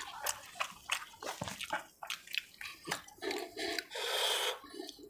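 Close-up wet mouth sounds of chewing mutton curry and puri: a run of sharp, wet smacking clicks, then a longer, louder wet noisy stretch a little past the middle.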